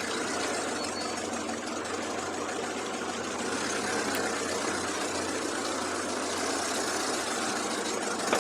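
Second-generation Toyota Hilux Surf's engine running steadily at low revs as the 4x4 crawls an off-road trail, getting a little louder about halfway through.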